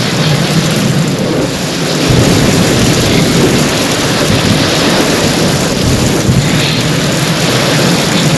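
Heavy rain pouring steadily, with low rolling thunder underneath; the rumble deepens about two seconds in.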